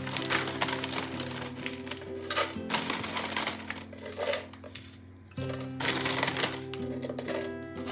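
Background music with sustained chords, over irregular clicks, taps and rustling of household items being handled.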